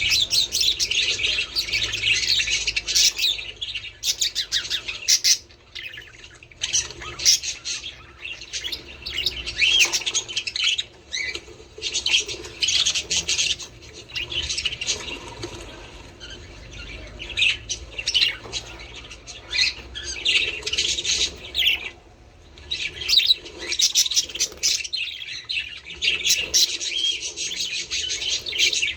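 Budgerigars chattering and warbling: a dense stream of fast, high chirps and squawks, easing off briefly a few times.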